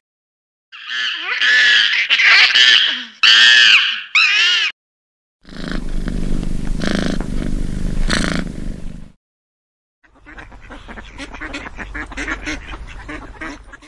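A string of separate animal clips. First come high-pitched, wavering calls lasting about four seconds, then a noisy stretch heavy in the low end. After a second of silence, a mallard drake bathes in a pond, its splashing a rapid run of short crackles in the water.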